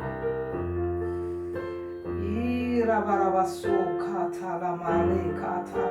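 Background worship music on a keyboard, with slow, sustained chords.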